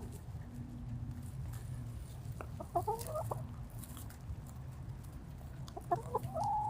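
Backyard chickens clucking in two short bouts, about two and a half seconds in and again near the end, over a steady low hum.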